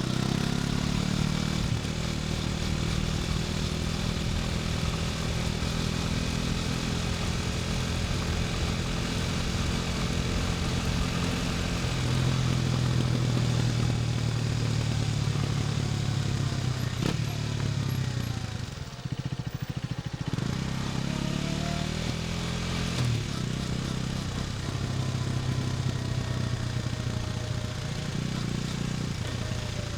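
KTM 250 Duke's single-cylinder four-stroke engine running under way through the gears, its pitch stepping with gear changes. About two-thirds of the way through it eases off briefly, then picks up again.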